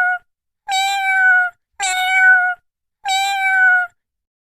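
Domestic cat meowing: three long meows, each falling slightly in pitch, about a second apart, after the tail end of another at the start.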